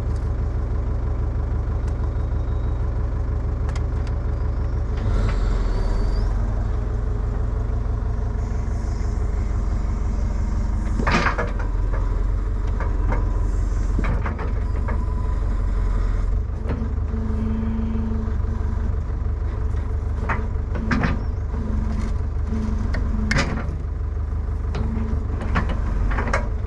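Excavator diesel engine running and working harder as the machine pushes its track idler back in against the bled track-tensioner cylinder, with sharp metal clanks from the track and undercarriage, the loudest about eleven seconds in and more near the end.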